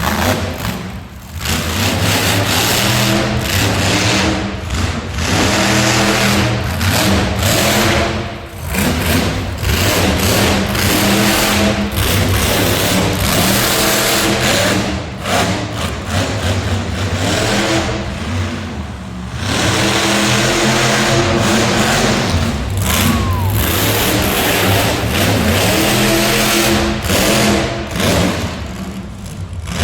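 Monster truck engine revving hard again and again, its pitch climbing and falling, with short throttle lifts several times.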